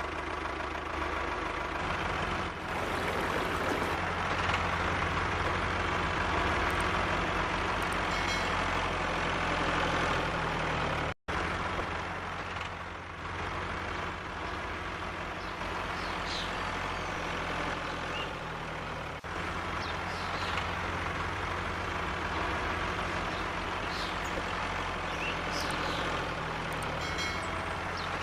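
Steady motor or engine running noise, an even low hum like an idling tractor, broken by one sudden cut about eleven seconds in.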